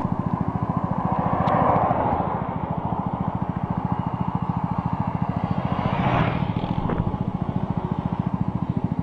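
Motorcycle engine idling with a fast, even beat. It swells briefly about a second and a half in, and again about six seconds in.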